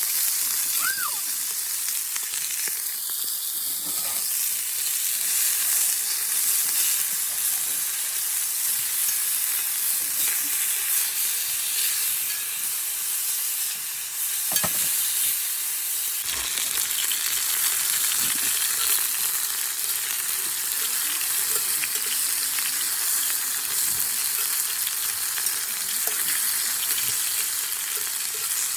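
Meat sizzling steadily in a cast-iron skillet over a campfire, with a few sharp pops and spits.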